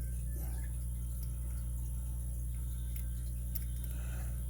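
Steady low electrical hum with a few faint, light clicks, typical of a pick and tension tool working in the pin-tumbler core of a Master padlock.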